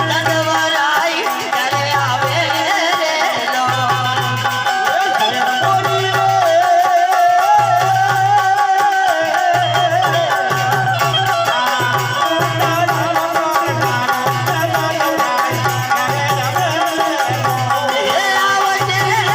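Ramamandal folk music: a wavering melody line over a steady low drum beat, which quickens about halfway through.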